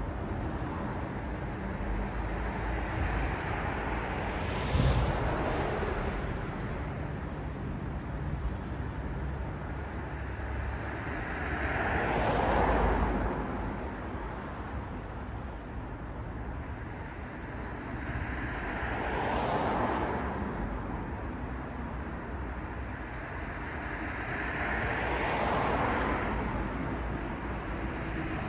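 City street traffic: cars passing one after another, each one's noise swelling and fading every six or seven seconds over a steady low road hum. A brief thump comes about five seconds in.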